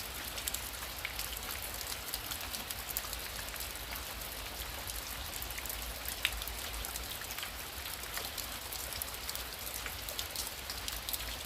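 Heavy rain falling steadily: a dense hiss full of sharp ticks from individual drops striking, over a low rumble.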